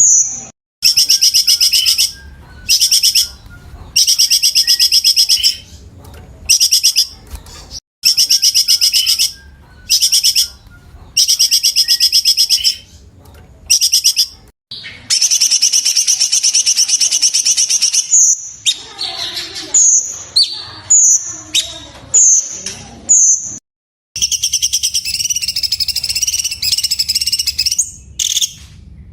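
Cucak cungkok singing: loud, high, rapid trilled phrases about a second each, separated by short pauses. About halfway a longer trill runs for around three seconds, followed by a run of short clipped notes and then a wavering trill near the end.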